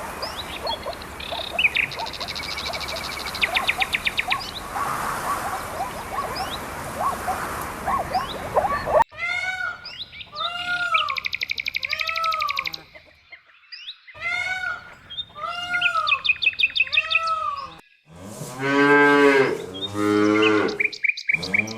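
A sequence of animal calls. First, birds trill and chirp over a steady rushing background. About nine seconds in comes a run of repeated arching calls, and near the end a louder, lower, drawn-out call with a wavering pitch.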